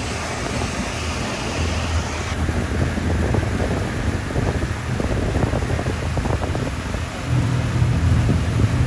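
A boat's engine drones low and steady while wind buffets the microphone. The drone grows louder about seven seconds in.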